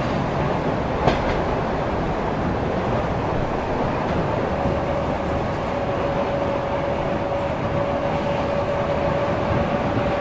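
Steady rumble and rattle of a moving suburban electric train heard from inside the carriage, with a single knock about a second in and a thin steady whine that comes in after about four seconds.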